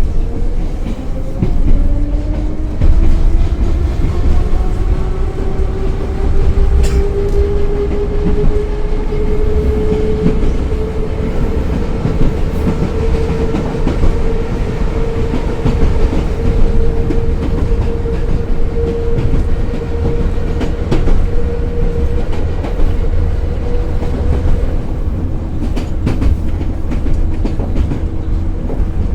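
Moscow Metro 81-717/714 ('Nomernoy') train running: the traction motor whine rises in pitch over the first ten seconds or so as it accelerates, holds steady, then drops about 25 seconds in. Underneath, a steady rumble and the rhythmic clatter of the wheels over rail joints.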